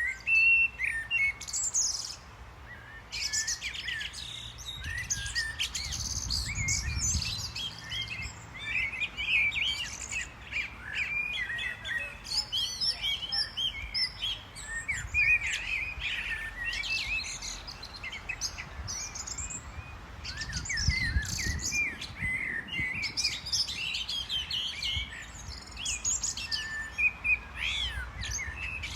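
A chorus of small songbirds chirping and twittering, many calls overlapping without a break, with a low rumble swelling up twice.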